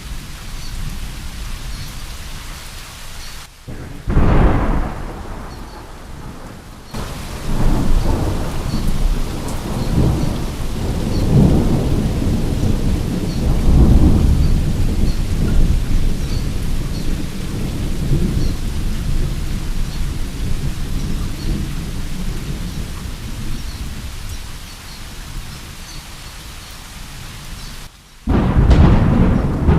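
Steady rain with thunder. A sudden thunderclap comes about four seconds in, then a long low rumble rolls on from about seven to twenty seconds in, and a second loud clap breaks near the end.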